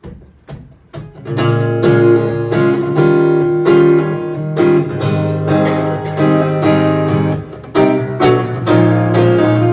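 Acoustic guitar in an instrumental passage: a few sharp, separate strokes in the first second, then steady, rhythmic chord strumming.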